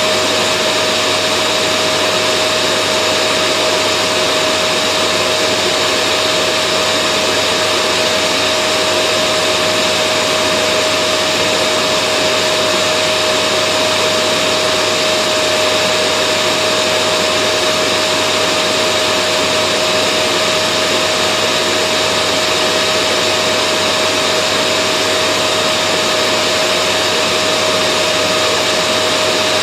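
Vacuum cleaner running steadily: an even rushing noise with a constant whine held on one pitch.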